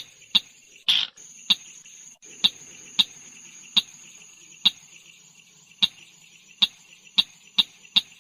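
Tut-tutan merah bird calling: a series of short, sharp "tuk" notes that slow from a quick run to about one every half-second to second. A faint steady high whine runs underneath.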